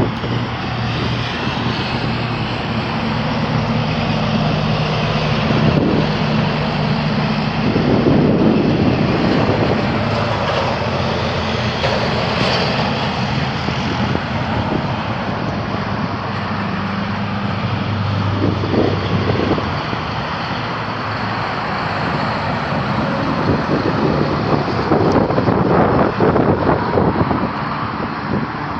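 Heavy trucks passing on a highway: diesel engines droning at several pitches over steady tyre and road noise, with a few louder swells as vehicles go by.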